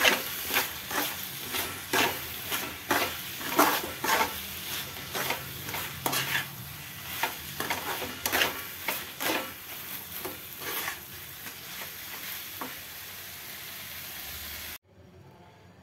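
Grated carrot halwa sizzling as it fries in ghee in a kadai, the last stage before it is done, while a slotted spatula stirs and scrapes it against the pan in quick, irregular strokes. The strokes thin out after about ten seconds, leaving mostly the sizzle, and the sound cuts off shortly before the end.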